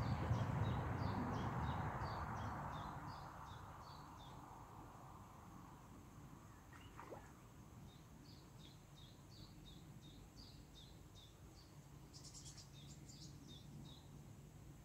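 A small bird calling repeatedly with short high chirps, about two a second, in two runs with a pause of a few seconds between them. In the first few seconds there is also a rush of noise that fades away.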